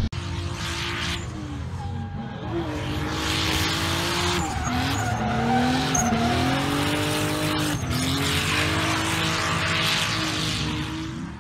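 Car engine revving hard, its pitch climbing and dropping several times, over tyre squeal as the car slides; it fades out near the end.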